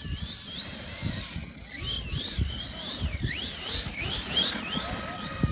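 Electric motor of a 1:7 scale RC monster truck whining, its pitch rising and falling over and over in quick sweeps as the throttle is worked, with a held tone near the end, over an uneven low rumble.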